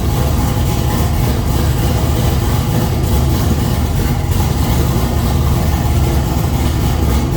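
Race car engine idling steadily with a loud, low rumble.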